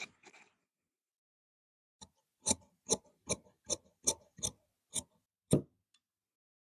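A run of about eight sharp clicks, two to three a second, from the tailor's tools at his workbench, after a brief faint rustle at the start.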